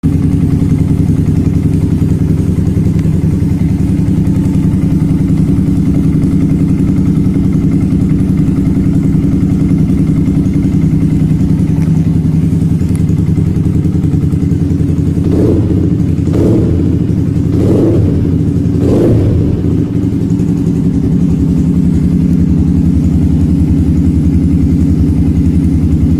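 Yamaha R15's single-cylinder four-stroke engine running loud through a custom Akrapovic-style aftermarket exhaust, idling steadily. About two-thirds of the way in, the throttle is blipped four times in quick succession.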